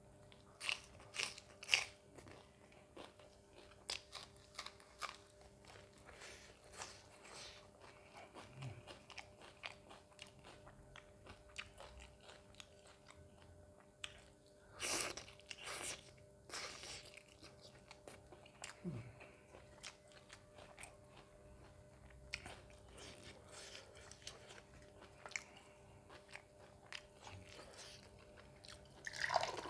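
Close-up eating sounds: crunchy bites of raw onion, then wet chewing of mutton curry and roti with many small clicks. Near the end, water starts pouring into a glass.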